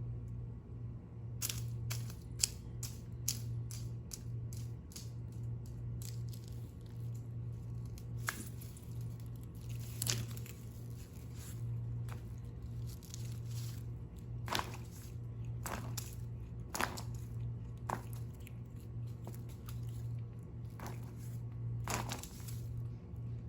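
A cat pawing and clawing at a rubber balloon: irregular sharp taps and short scratches, some in quick runs, over a steady low hum.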